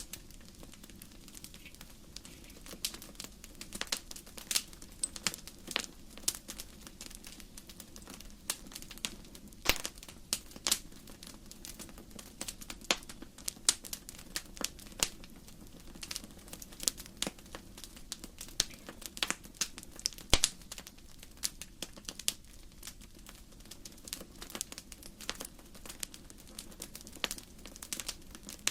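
Wood fire in a fireplace crackling: a steady run of irregular small pops and snaps with a few louder cracks, over the low rumble of the flames.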